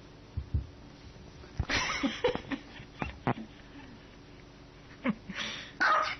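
A small dog barking in short, sharp yaps: a burst about a second and a half in, then a quick run of barks near the end.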